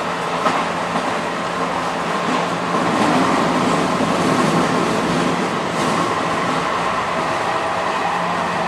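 Passenger train running along the track: a steady rumble of wheels and carriage with a few short knocks, getting a little louder about three seconds in.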